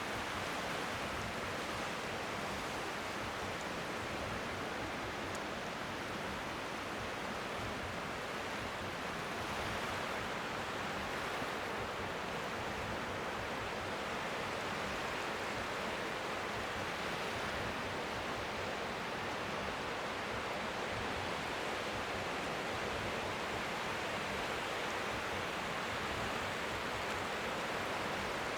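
Steady rushing noise of strong seaside wind, with gentle waves lapping faintly beneath it.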